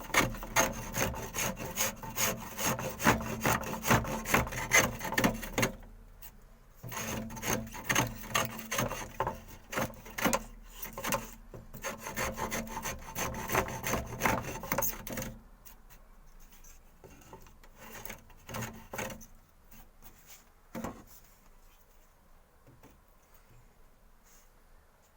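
A rasp filing wood in quick, repeated strokes, in two runs with a short pause about six seconds in. The filing stops about fifteen seconds in, leaving only a few faint knocks.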